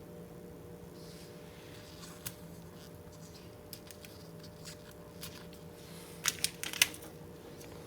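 Small handling sounds of hands-on repair work: scattered light clicks and taps, then a quick run of four louder clicks about six to seven seconds in, over a steady low hum.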